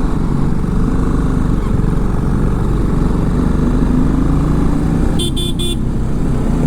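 BMW G310GS motorcycle's single-cylinder engine running on the move, its pitch wavering with the throttle, with wind on the microphone. About five seconds in, a vehicle horn toots three times in quick succession.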